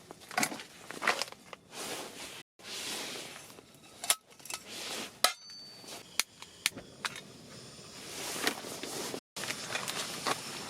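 Camp cookware and utensils being handled: metal pans and utensils clinking and knocking at irregular intervals, with rustling in between, broken by a few abrupt cut-outs.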